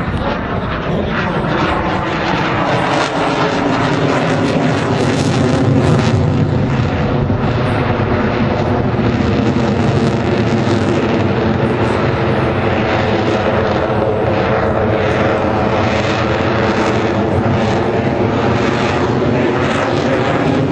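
An airplane's engine droning steadily overhead, with several pitched tones that drop slightly in the first few seconds and then hold.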